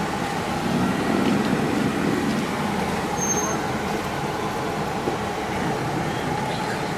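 Motor vehicle running, a steady engine and road noise that swells slightly about a second in.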